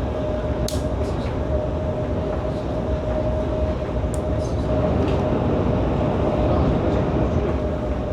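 Cabin running noise of a Chinese high-speed bullet train at speed: a steady low rumble with a constant whining tone, and a few faint clicks.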